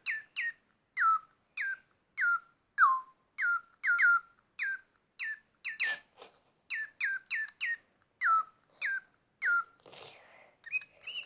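Digi Birds electronic toy bird singing: a long run of short chirps, each falling quickly in pitch, about two a second. A brief hiss comes about ten seconds in.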